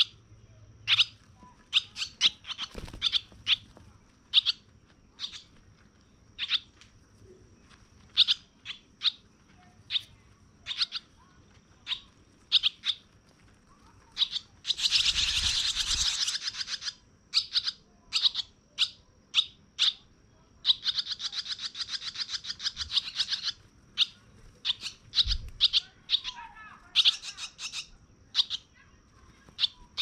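Baby birds chirping: short, high chirps come every second or so. A loud burst of rapid, buzzy chirping breaks out about halfway through, and a second raspy run of rapid chirps follows a few seconds later.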